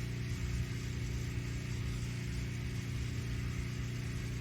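Pressure washer engine running steadily with an even low hum, before the wand starts spraying.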